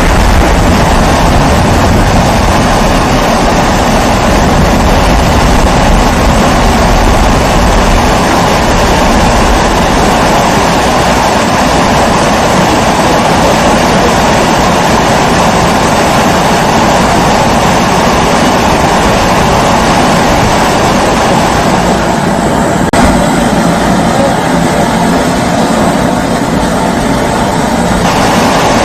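Kerosene pressure stove (primus-type) burner running with a steady roaring hiss. About three quarters of the way through, the higher part of the hiss thins out for several seconds, then comes back near the end.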